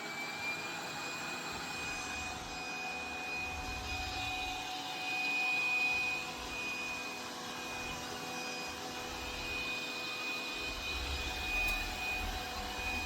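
Robot vacuum cleaner running, a steady motor hum with a high whine that climbs a little in the first second, then holds.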